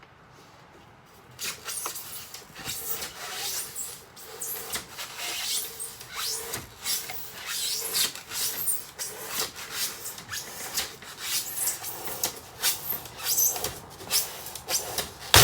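Foam in a kayak being scraped and cut away by hand, heard as irregular rubbing, rasping strokes that begin about a second and a half in. A sharp knock comes at the very end.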